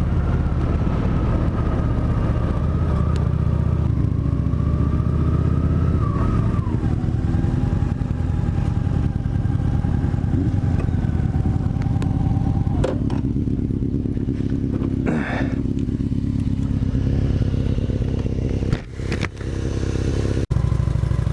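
Motorcycle engine running while riding, with wind rushing on the helmet microphone; the engine note shifts up and down slowly with the throttle. A few sharp knocks come near the end.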